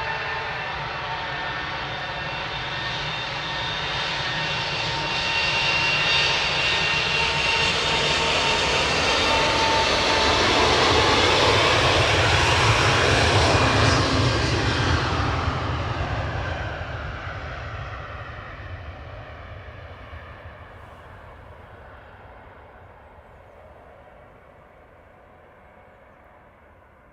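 Airbus A380's four turbofan engines at takeoff thrust: steady jet noise with a high whine, growing louder to a peak about halfway. The pitch then drops and the sound fades away as the airliner passes and climbs off.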